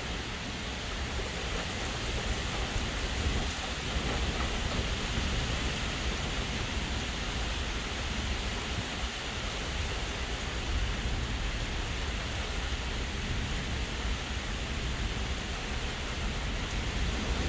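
Steady rain falling in a thunderstorm, with a low rumble underneath.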